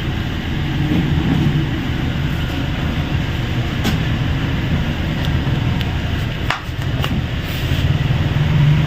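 Steady low rumble of vehicle noise, with a few sharp clicks about four seconds in and twice more near the seven-second mark.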